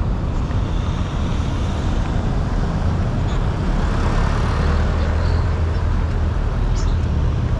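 Steady road traffic: vehicle engines and tyres on a busy multi-lane road, with a heavier vehicle's low engine hum growing louder from about halfway through.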